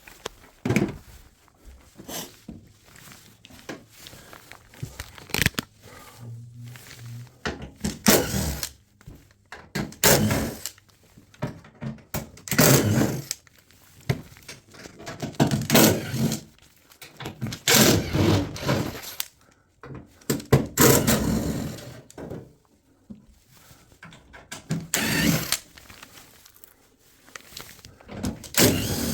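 Repeated thunks, scrapes and clatter of washing-machine panels and parts being handled and pulled apart, a loud bang every two to three seconds.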